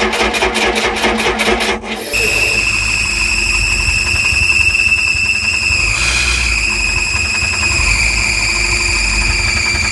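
Mercruiser 3.7 four-cylinder marine engine running with an even rhythmic knocking about five times a second. About two seconds in, the sound changes to a low rumble under a loud, steady, high-pitched squeal that slowly sinks a little in pitch: the squeal of bad bearings.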